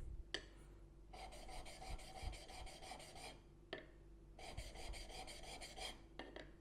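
Steel chisel bevel rubbed back and forth on a wet 600-grit diamond sharpening plate, a rasping scrape in short freehand passes. Two runs of quick strokes with brief pauses between them, as the blade is lifted to check the bevel.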